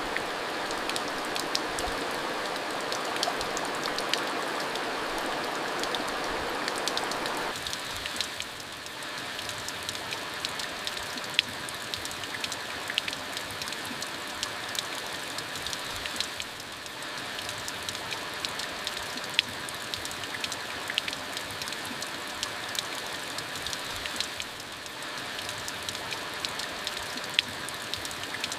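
Steady rain falling, with many separate drops ticking sharply over the even hiss. A fuller rushing layer drops away about seven seconds in, leaving a lighter patter.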